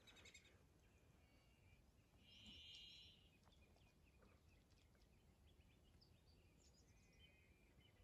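Faint birdsong from small birds: scattered short chirps and trills, the loudest a buzzy trill about two and a half seconds in and another trill near the end, over faint low background noise.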